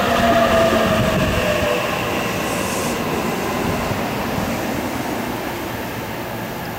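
Electric commuter train slowing as it runs into a station: its motor whine falls in pitch and fades out in the first two seconds, leaving a steady rumble of wheels on rail that slowly gets quieter.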